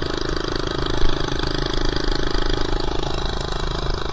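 Minibike's small four-stroke engine running steadily with no muffler, a fast even pulse of exhaust. It runs poorly and has to be held on a little throttle to keep from dying, which the rider puts down to the missing muffler.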